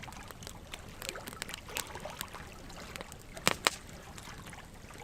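Wood fire burning with a steady low hiss and irregular crackles and pops from the logs, two sharp pops in quick succession about three and a half seconds in.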